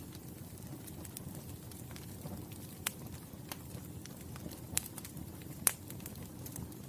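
Wood fire burning with a low steady rumble and scattered crackles, and three sharp pops, the loudest about five and a half seconds in.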